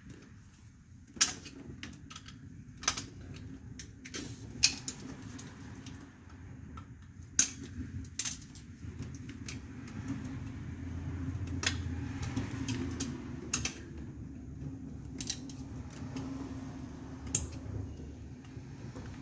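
Sharp metallic clinks and taps of hand tools and brake parts being handled, a scattered handful of them over a low steady rumble that swells briefly midway.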